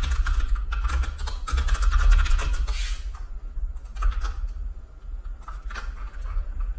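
Computer keyboard typing: a quick clatter of key presses, busiest in the first three seconds and then sparser, over a steady low hum.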